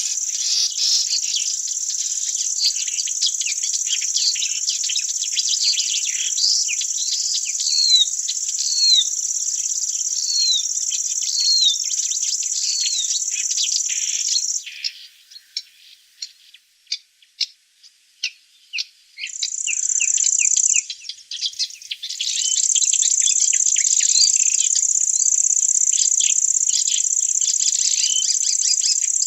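A steady, high-pitched insect trill, likely crickets, with many short falling bird chirps over it. About halfway through the trill stops for several seconds, leaving scattered chirps and ticks; it returns briefly, then resumes and carries on.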